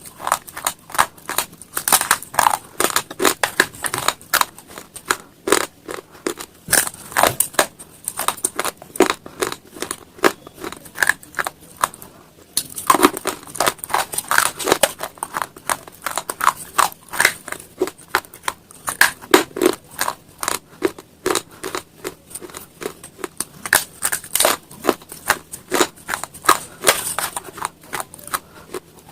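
Close-up chewing and crunching of hard, brittle slate stone pieces: a dense, rapid run of sharp cracks and crunches, with a short pause about twelve seconds in.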